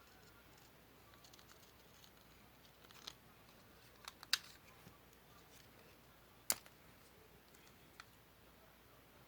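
Scissors snipping paper: a few sharp, separate snips with pauses between them, the loudest about four and a half and six and a half seconds in.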